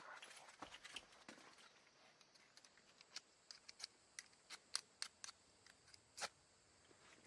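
Soft rustling, then a run of about a dozen sharp, irregular clicks.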